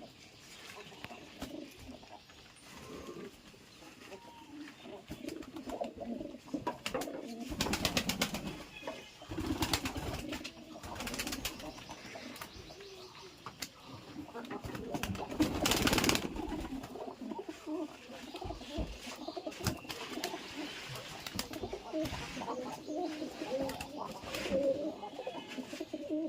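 Domestic pigeons cooing continuously in a low, wavering murmur, with a few short, louder noisy bursts, the loudest about halfway through.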